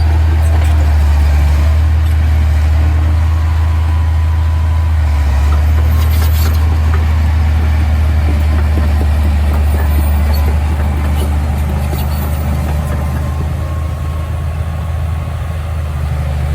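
Heavy diesel earth-moving machinery running steadily with a low drone, with a few light metallic clinks about six seconds in and again later on.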